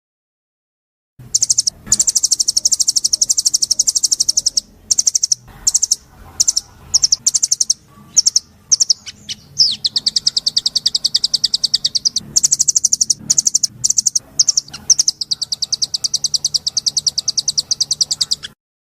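A songbird singing long, very rapid high-pitched trills, broken by short pauses. It starts about a second in and stops shortly before the end.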